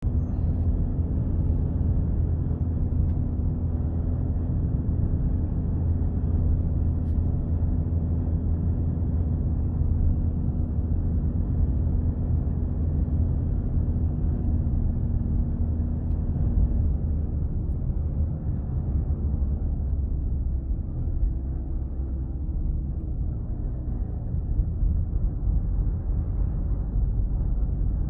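Car engine and road noise heard from inside the cabin while driving: a steady low rumble with an engine hum that holds its pitch, then shifts a little over halfway through.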